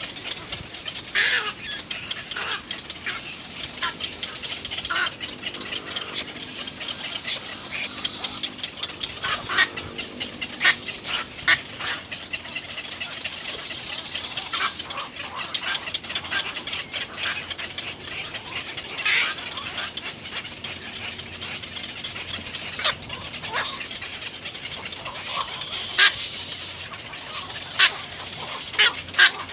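Little egrets calling at the nest: scattered short, sharp, harsh calls and clicks, irregular throughout, over a steady hiss.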